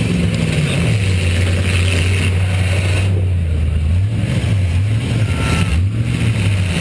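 Eight-cylinder demolition derby car engine running loudly; its revs drop about a second in, hold steady, then rise and fall again near the end.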